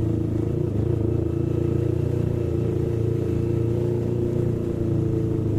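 Yamaha MT-25's 249 cc parallel-twin engine running steadily at an even, low engine speed, heard through a helmet intercom microphone.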